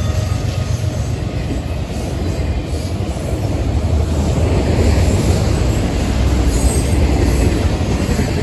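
Florida East Coast Railway freight train rolling past: a steady heavy rumble of wheels on the rails, with a brief high squeal about six and a half seconds in.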